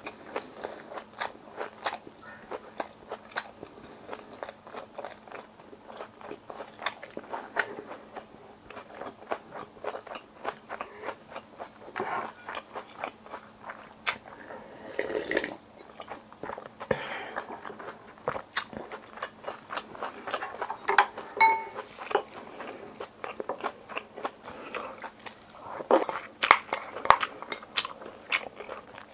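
A person chewing and biting food close to the microphone, with many small crunches and wet clicks of the mouth at an irregular pace, and a few louder bursts of crunching.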